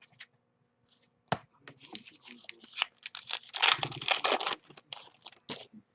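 Crinkly wrapper of a trading-card pack being torn open and crumpled by hand, a dense run of crackling that builds to its loudest past the middle and stops near the end.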